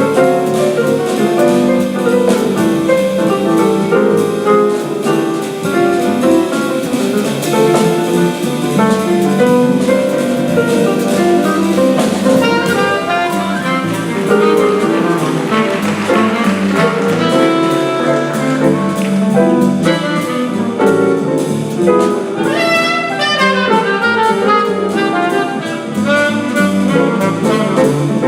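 Live small-group jazz: a saxophone playing a solo line over piano and drum kit, with quick runs of notes in the second half.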